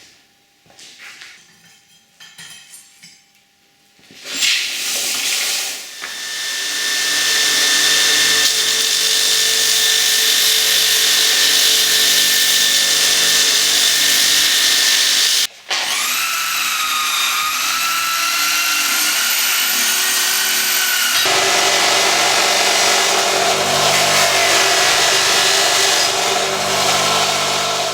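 An electric power tool running under load, grinding or sanding, starting about four seconds in. It stops for a moment midway, then runs on with a high whine, and its sound changes again a few seconds later.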